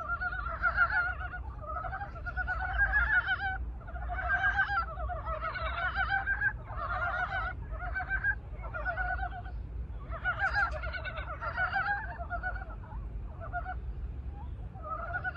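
A chorus of Korean brown frogs (mountain frogs) giving their breeding calls: many overlapping runs of rapid, pulsed croaks, one run after another with only short gaps.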